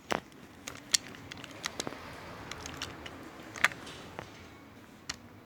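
Scattered light clicks and taps of small hard objects being handled, a dozen or so at irregular intervals, the sharpest about a second in and again past the middle.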